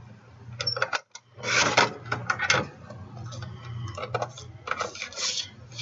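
Cardstock and craft tools being handled on a work table: a series of clicks and short scraping, rustling strokes, the loudest a couple of seconds in.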